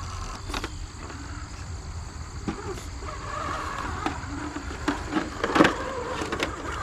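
Small electric motor of a radio-controlled crawler truck whirring as it crawls, with a few sharp knocks and clatters, the loudest about five and a half seconds in.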